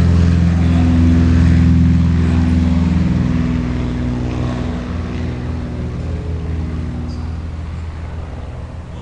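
Propeller airplane's engines droning with a steady low pitch, slowly fading as the aircraft moves away.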